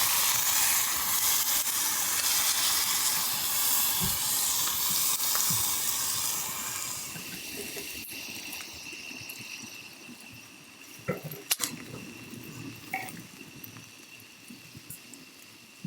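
Food sizzling on a hot pan: a steady hiss that fades away over several seconds, followed by a few light knocks and clicks.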